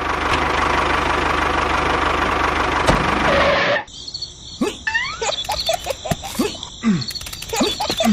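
A small motor running with a steady fast whir for about four seconds, then cutting off suddenly. After it come short sliding whistles and chirps, rising and falling, over a faint steady high tone.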